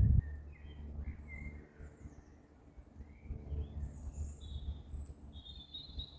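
Small birds chirping and calling on and off, short high notes and brief whistles, over a faint low rumble.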